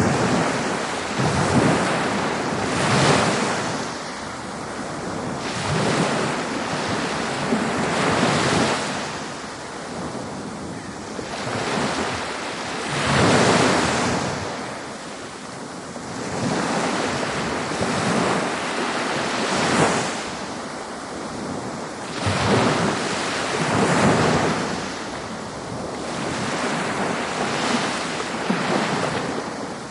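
Ocean surf on a beach, waves breaking and washing in one after another, a fresh surge every three to six seconds.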